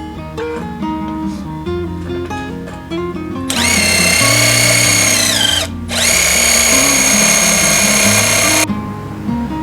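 Electric power tool running in two bursts of a few seconds each, a loud high whine with hiss; its pitch drops as the first burst winds down, then it starts again. Acoustic guitar music plays underneath.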